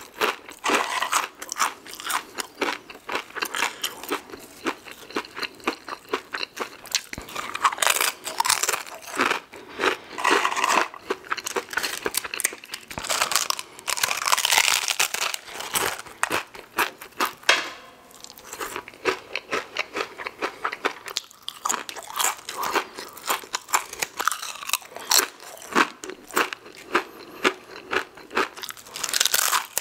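Close-miked crunching and chewing of crispy tortilla chips dipped in queso, many sharp crunches in quick succession.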